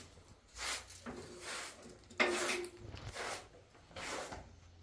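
Household objects being handled and knocked together during cleaning: a few separate scrapes and clatters, the sharpest and loudest about two seconds in.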